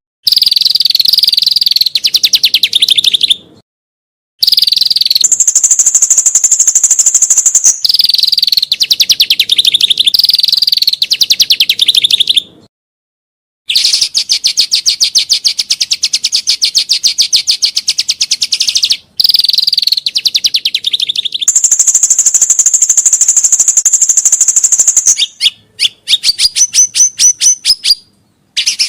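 A songbird singing loud, very rapid trills and fast repeated high notes in runs of a few seconds, broken by sudden silent gaps; near the end it gives a string of short rising whistled notes.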